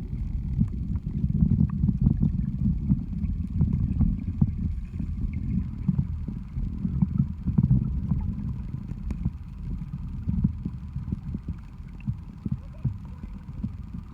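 Muffled, low rumbling water noise with many small crackles and clicks, with almost no high sound, as heard by a camera held underwater in the pool.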